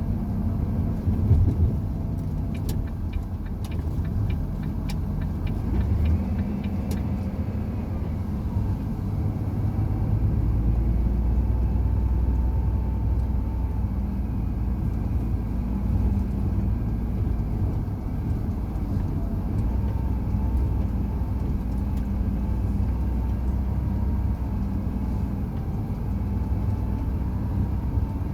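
Truck driving on the road: steady low engine drone and road rumble, with a faint wavering whine above it. A run of light clicks comes in the first few seconds.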